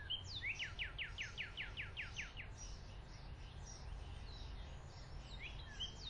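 Wild songbirds chirping, one giving a quick run of about a dozen down-slurred notes in the first couple of seconds, then scattered single chirps, over a low steady background hum.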